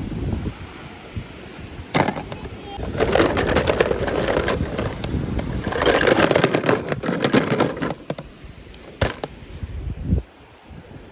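Plastic packaging crinkling and rustling as miniature toys are unboxed, in two busy stretches of crackling with sharp clicks between them.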